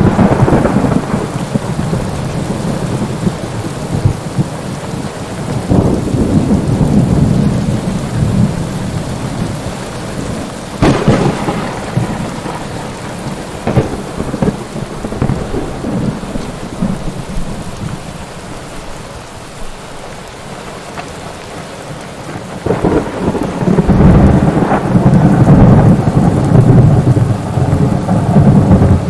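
Thunderstorm: steady heavy rain with rolling thunder, sharp cracks about eleven and fourteen seconds in, and a long, loud rumble building over the last six seconds.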